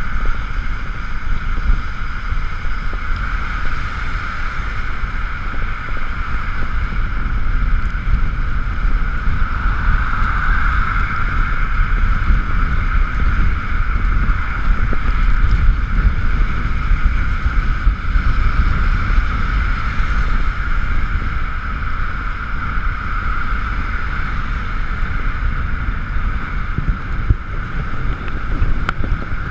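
Ekoway ML5000 electric scooter under way: a steady high-pitched electric motor whine over heavy wind rumble on the camera's microphone, the whine swelling slightly about a third of the way in.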